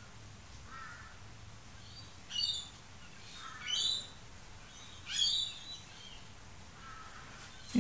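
Faint bird calls: about five short, separate chirps, each falling in pitch, spaced a second or more apart, over a low steady hum.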